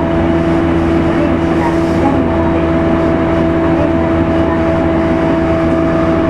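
Interior running sound of a JR East E231-series electric motor car (MoHa E231): steady rumble of wheels on rail and running gear, with two steady whines from the traction motors holding their pitch at a constant cruising speed.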